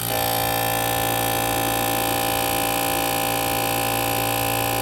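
Fuel injector test bench pulsing a set of large race-car fuel injectors at a simulated 6,400 RPM: a steady, loud, even buzz that starts abruptly.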